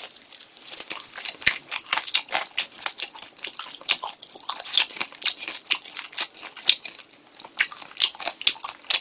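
Close-up chewing and crunching of spicy chicken pieces: a steady, irregular run of wet mouth clicks and smacks, several a second, with bites into skin and bone.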